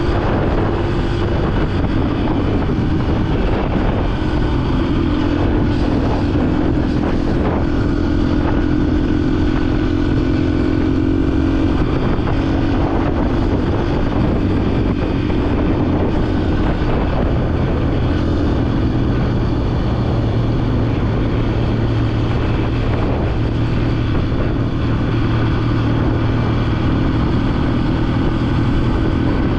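Yamaha dirt bike engine running steadily as the bike is ridden, its pitch shifting slightly now and then with throttle or gear changes, with wind and road noise underneath.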